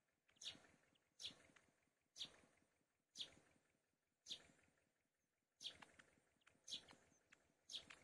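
A bird giving short, sharp, high calls, faint, repeated about once a second.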